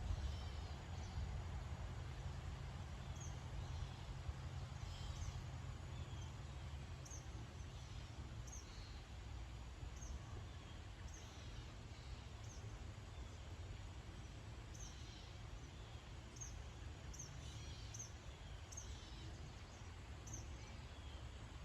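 Several birds calling with short, high chirps that repeat every second or so, over a steady low background rumble.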